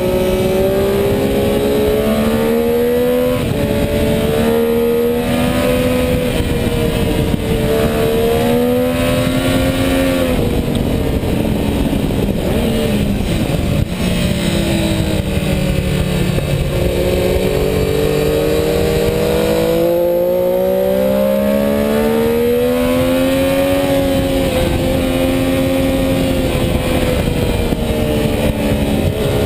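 Sport motorcycle engine at racing speed on a track, its pitch climbing as it accelerates and dropping off under braking several times over, with steady wind rush.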